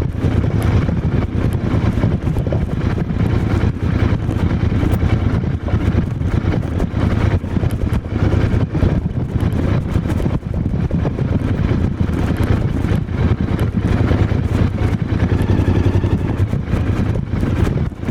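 Royal Enfield Interceptor 650's 648 cc parallel-twin engine and exhaust running steadily, a dense, even low pulsing.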